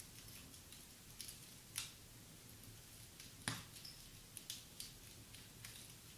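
Wood fire in a fireplace crackling faintly, with scattered sharp pops, the loudest about three and a half seconds in.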